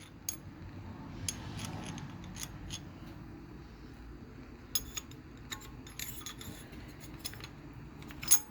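Light metallic clicks and clinks of valvetrain parts being handled and fitted on a GM 4.3 V6 under rebuild, scattered and irregular, with the sharpest click near the end. A steady low background hum runs underneath.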